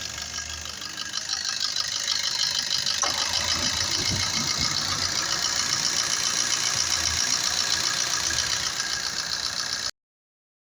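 Maruti Suzuki S-Cross engine idling steadily with a fast, even ticking rhythm, with the air-conditioning switched on. The sound cuts off abruptly near the end.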